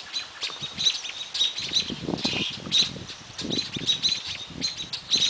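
A small songbird chirping repeatedly in short, sharp, high notes, about two or three a second, with some low muffled sounds in the middle.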